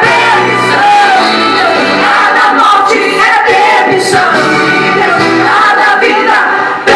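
Worship singing at a church service: a group of voices singing together over instrumental music, loud and continuous, with a very short drop just before the end.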